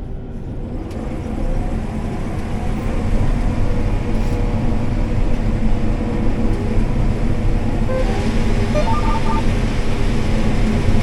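A combine's diesel engine and threshing machinery running steadily while harvesting corn, a dense, even rumble.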